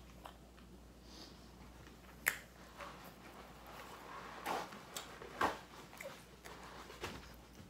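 A person chewing food with the mouth closed, with a few short, sharp mouth clicks and smacks: a sharp click a little over two seconds in and two louder smacks around four and a half and five and a half seconds in.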